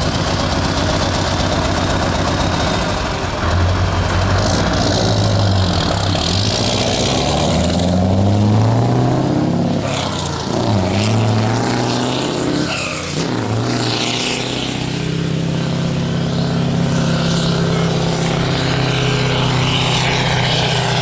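Scania R500 truck's V8 diesel engine pulling hard under load up a hill. Its pitch climbs and drops back several times through the first half as it shifts gears, then holds a steady drone.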